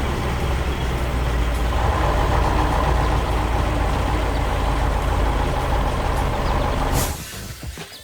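Heavy truck engine running steadily, with a higher steady hiss joining about two seconds in; it cuts off suddenly about seven seconds in.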